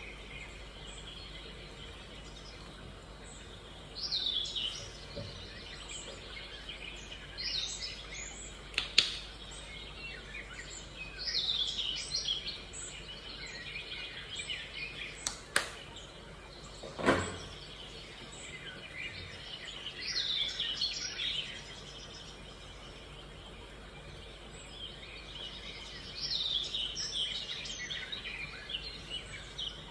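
A bird singing short chirping phrases that fall in pitch, repeated every few seconds. A few sharp clicks come in between, the loudest about halfway through.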